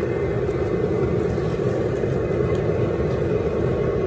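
Propane jet burner of an outdoor seafood-boil cooker running loud under a pot of boiling water: a steady rushing noise with a low rumble beneath.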